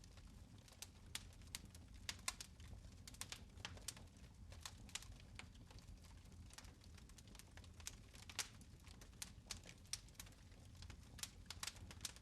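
Fire in a fireplace crackling: irregular sharp pops and snaps, a few a second, over a low steady rumble.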